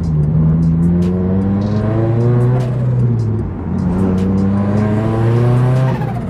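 Turbocharged Toyota GR86's flat-four engine accelerating hard. Its pitch climbs through one gear, drops at a shift about two and a half seconds in, then climbs through the next gear and drops again at another shift near the end.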